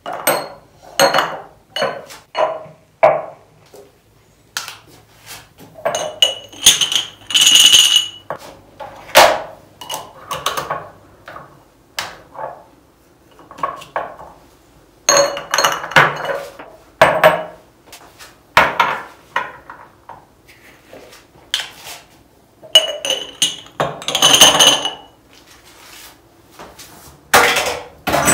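Glass jars and containers being handled and set down on hard surfaces: an irregular run of clinks and knocks, with two longer ringing scrapes of glass.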